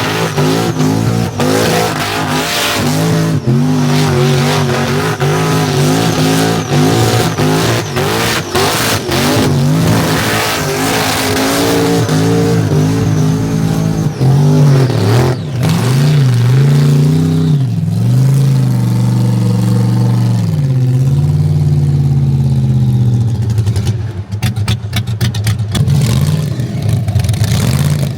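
Toyota KE20 Corolla burnout car's engine revving hard and repeatedly during a burnout test run, the pitch jumping up and down. After about 20 s the revs come down and it runs lower and steadier.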